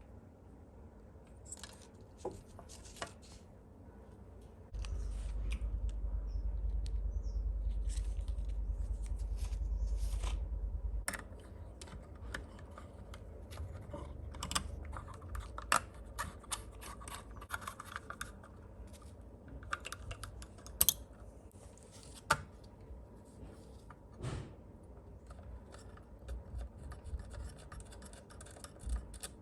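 Hand assembly of small model-kit parts: scattered clicks, taps and light scraping of parts and hand tools. A low rumble starts about five seconds in, runs for about six seconds, then stops, and is the loudest part.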